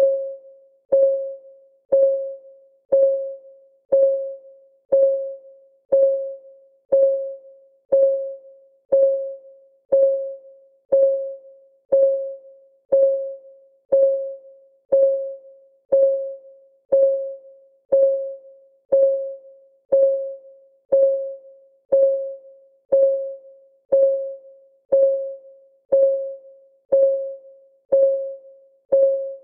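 Clock ticking sound, one sharp pitched tick each second with a short ringing tone and a much fainter tick after each, steady throughout.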